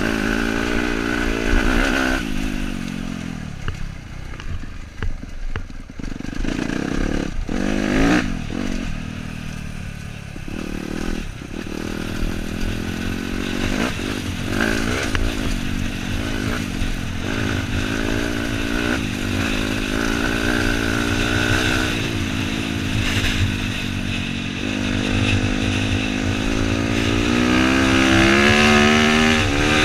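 Dirt bike engine running under the rider, easing off about two seconds in and burbling at low revs over rough ground with knocks and rattles, then picking up and revving higher near the end.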